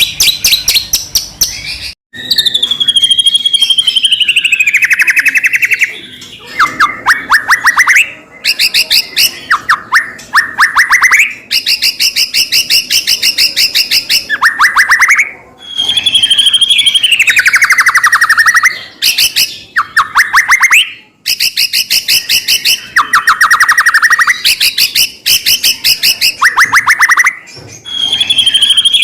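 White-rumped shama (murai batu) singing loudly and almost without pause: fast rattling trills of rapidly repeated notes alternate with long whistles that slide down in pitch, with brief breaks between phrases.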